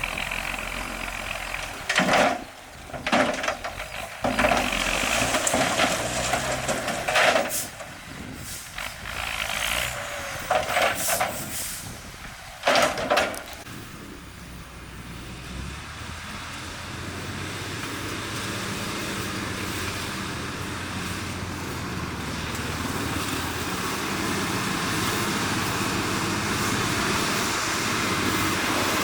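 Heavy road-building machinery: several short, loud hissing bursts over the first half, then a steady engine running that slowly grows louder.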